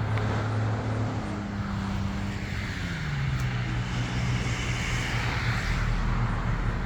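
A motor vehicle's engine running steadily. Its pitch rises about a second in, then drops around three seconds and holds.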